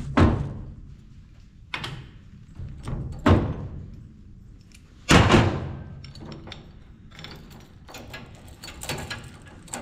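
Four loud metal clanks about a second and a half apart, each ringing briefly, then lighter clicking and rattling as hand tools work on the steel gearbox of a grain drill.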